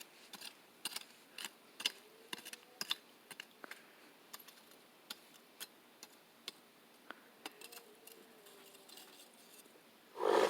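Small open fire crackling: irregular sharp pops and ticks at uneven intervals, with a brief louder rush just before the end.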